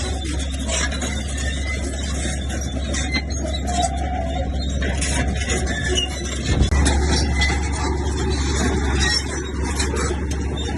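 Komatsu crawler bulldozer at work: a steady diesel engine drone with many short clanks and rattles from the machine. The drone dips for a moment about six and a half seconds in, then comes back louder.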